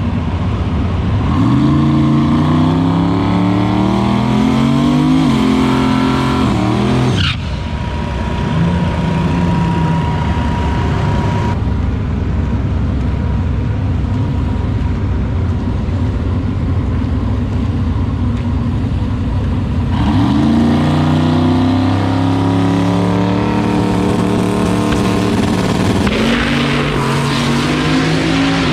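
Turbocharged drag car accelerating hard down the strip, the engine's pitch climbing and stepping back at the gear changes. The sound breaks off abruptly a few times between separate stretches of hard acceleration.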